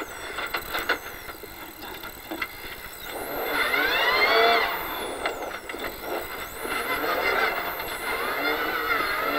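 Toyota Hilux rally-raid car's engine heard from inside the cockpit, revving up and easing back twice, with a few sharp knocks from the car about a second in.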